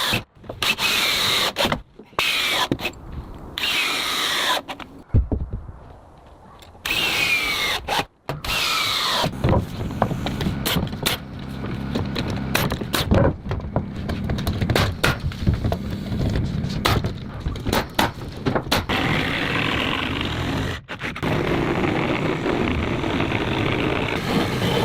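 Power tools working timber, cut together from short clips: several brief falling whines in the first few seconds, then steadier, denser tool and wood noise.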